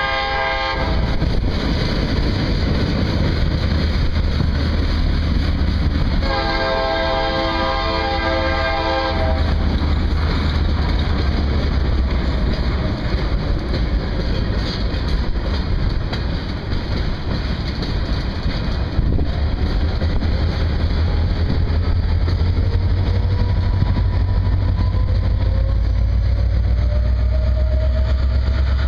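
Freight train of tank cars rolling past with a steady rumble of wheels on rail. A diesel locomotive horn sounds briefly at the start and again for about three seconds a little after six seconds in. The low rumble grows heavier near the end as the CSX diesel locomotive draws level.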